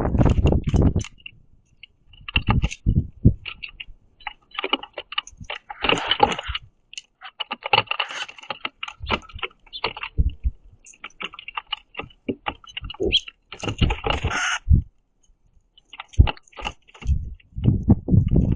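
Birds pecking at sunflower seeds on a platform feeder right by the microphone: rapid irregular clicks and taps, with low thumps and short high chirps mixed in.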